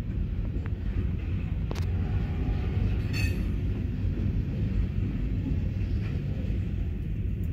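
Freight train's covered hopper cars rolling over a grade crossing, heard from inside a car: a steady low rumble with a few sharp clicks of wheels over the rail joints. The last car clears the crossing about five seconds in.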